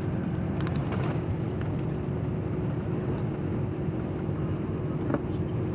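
Steady low road-and-engine drone of a sleeper truck driving at speed, heard inside the cab, with a constant hum over it. A few light clicks and taps about a second in and near the end.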